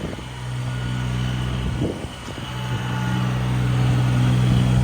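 An engine running steadily with a low hum. It dips briefly about two seconds in, then grows louder toward the end.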